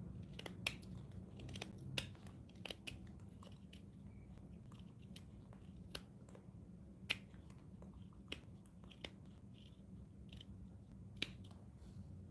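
Irregular sharp clicks and taps of hand tools working wood, a dozen or so, the loudest about 2, 7 and 11 seconds in, over a steady low hum.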